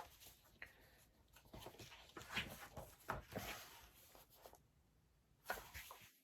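Faint rustling and soft clicks of paper as the pages of a picture book are turned and handled, in a few separate bursts.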